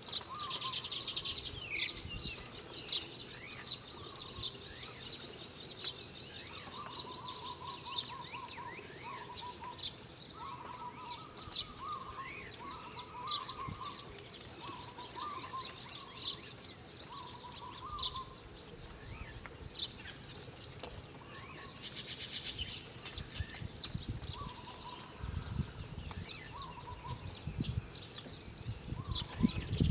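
Small wild birds chirping: a steady stream of quick high chips, with a lower warbled phrase repeated many times in the first half. A few low knocks and rumbles come near the end.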